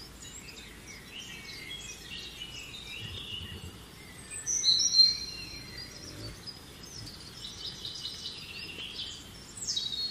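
Birds chirping and calling, a scatter of short high notes, with a louder run of high whistled calls about five seconds in.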